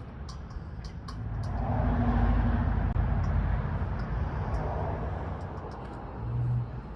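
A motor vehicle driving past, its sound swelling over about a second and then fading away over the next few seconds. A brief low hum follows near the end.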